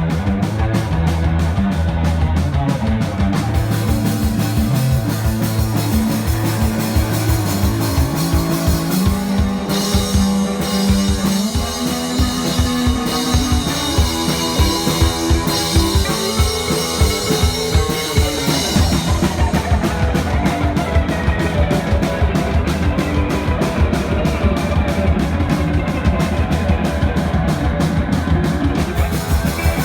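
Rock band playing loud: drum kit keeping a steady beat under electric guitars, the arrangement shifting partway through.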